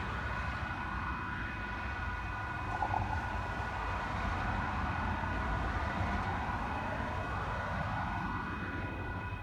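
Union Pacific freight train running, a steady low diesel-locomotive rumble with a steady high whine over it.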